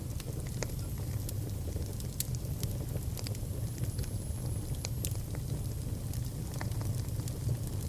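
Fire burning in a fireplace: a steady low rumble with irregular sharp crackles and pops, and a faint thin high whistle that comes and goes.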